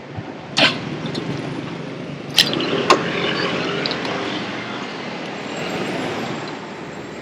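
Motorbike engine running on the move with road and traffic noise, broken by a few sharp clicks or knocks, the loudest about half a second, two and a half and three seconds in.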